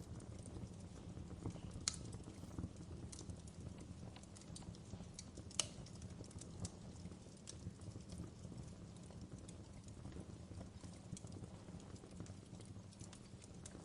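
Wood fire crackling in a fireplace: irregular sharp pops and snaps over a low steady rumble, with two louder pops about two seconds and five and a half seconds in.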